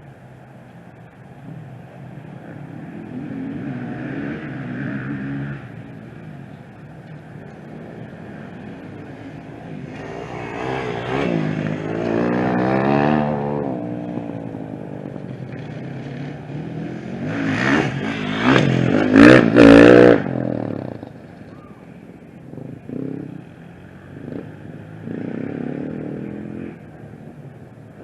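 Off-road motorcycle engines revving as bikes pass: one rises and falls in pitch about halfway through, the loudest comes about two-thirds through, and a few short revs follow near the end.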